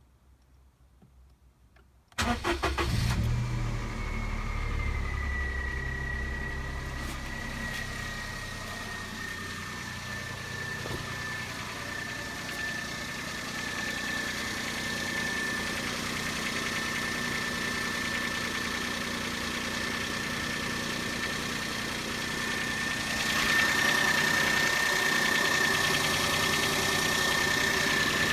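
Daihatsu Cuore engine starting about two seconds in and then idling, with the rattle ("Klappern") that is the point of the recording. A steady high whine runs over it, and the sound grows louder near the end.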